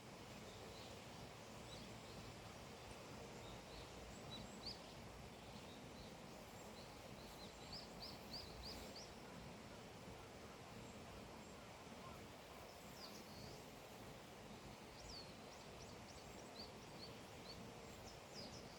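Small birds chirping faintly outdoors: scattered short high chirps coming in loose flurries, twice, over a quiet steady background hush.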